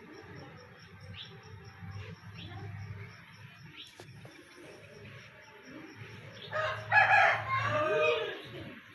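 A rooster crowing once, loud, for about two seconds near the end.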